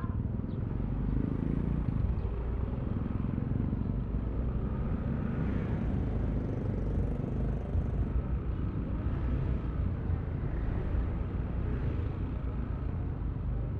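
Yamaha Aerox V3 scooter's single-cylinder engine running steadily while riding, with the rumble of the ride under it.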